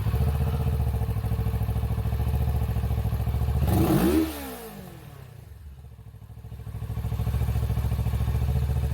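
Kawasaki Z650 motorcycle engine running through its stock muffler: a steady idle, one short blip of the throttle about four seconds in that rises and falls, then back to idle.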